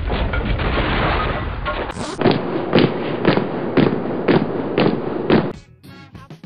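Soundtrack of a dramatic intro: a loud rushing noise with a deep rumble, then a run of heavy booms about two a second. The booms stop about five and a half seconds in, where a song starts.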